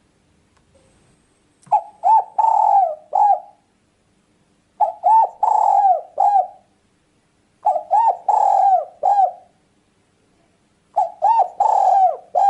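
Spotted dove (tekukur) cooing: four phrases a few seconds apart, each a quick run of several short, slightly bending coos.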